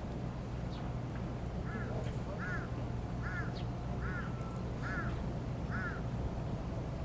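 A bird calling six times in an even series, short arched calls a little under a second apart, over a steady low hum of town traffic.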